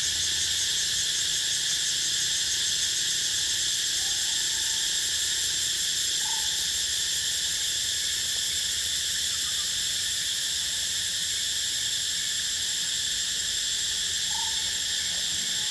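Dense, steady chorus of insects trilling continuously at a high pitch. A couple of faint short calls sound over it, about six seconds in and near the end.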